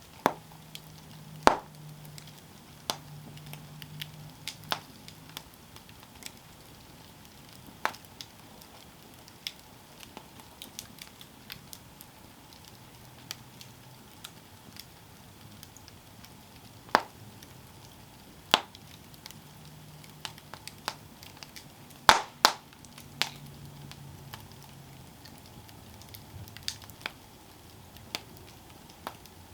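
Campfire burning with irregular crackling: scattered small ticks and several loud sharp pops. The loudest snaps come about a second and a half in and in a close pair around the two-thirds mark.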